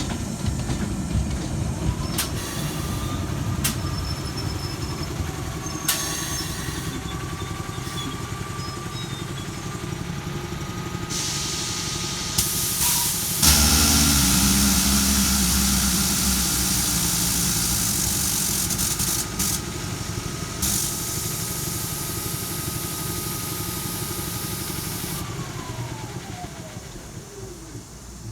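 London Underground Central line train at a station: a steady high electrical whine comes in about two seconds in and falls away near the end, with loud hissing and a low rumble starting about halfway through.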